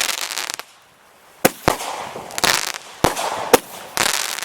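Consumer multi-shot fireworks cake firing: sharp bangs roughly every one to one and a half seconds, each followed by a spell of crackling.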